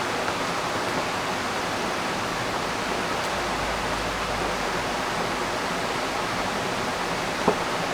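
Steady rushing of a river's flowing water, an even wash of sound, with one sharp click near the end.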